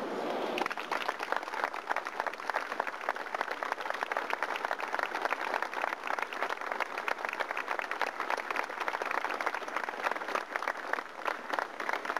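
Crowd applauding, a dense patter of many hands clapping that starts about half a second in and keeps up steadily.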